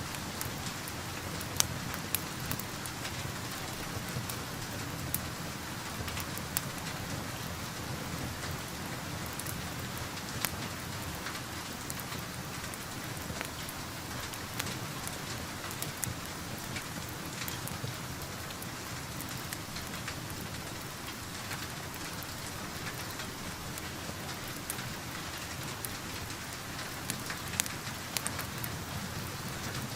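Steady rain heard from indoors, mixed with the scattered sharp pops of a crackling wood fire in a fireplace; a few pops stand out louder.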